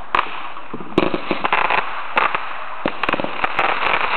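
Aerial fireworks going off: a rapid string of sharp pops and crackles that thickens about a second in.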